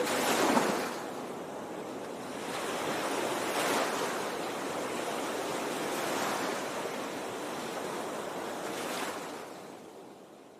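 Water rushing, swelling and easing every few seconds, then fading out near the end.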